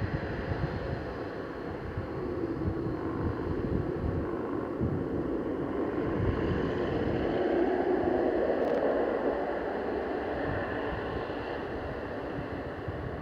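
Wind buffeting the microphone over a steady aircraft engine rumble, which swells midway and then eases.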